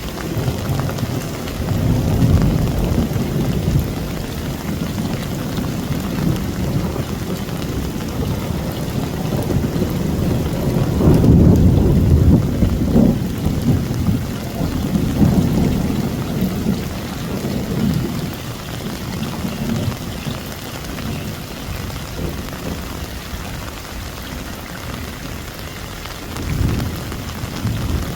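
Heavy rain pouring steadily in a thunderstorm, with deep rolling thunder that swells and fades several times, loudest about eleven seconds in.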